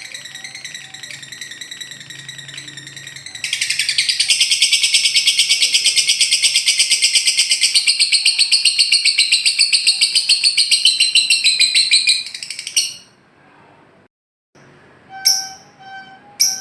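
Lovebird ngekek: a loud, long, rapid chattering trill of about eight pulses a second, lasting roughly nine seconds. It follows quieter high calling and cuts off, and after a brief gap a few sharp chirps over a steady tone come near the end.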